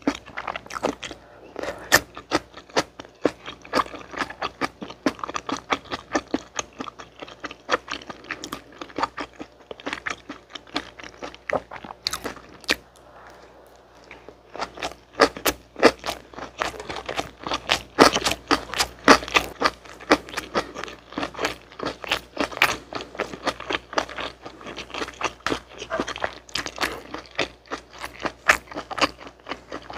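Close-miked chewing of gimbap and leftover jjolmyeon vegetables: quick wet mouth clicks and soft crunches, with a short pause a little before halfway.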